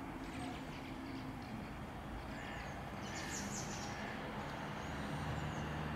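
Birds calling outdoors with harsh, caw-like calls, loudest about three seconds in, over a quiet street background with a low engine hum near the end.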